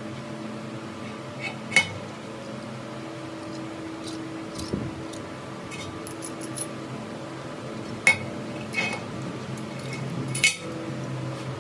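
Metal parts clinking and tapping against each other, with a few sharp clinks standing out, over a steady low hum of workshop machinery.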